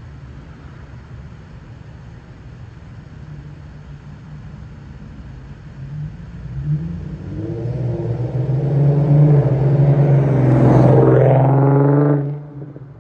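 Infiniti Q50's VQ37VHR V6 with its muffler deleted, heard as the car drives by: a low exhaust rumble that builds as it approaches, is loudest as it passes, then drops away suddenly near the end.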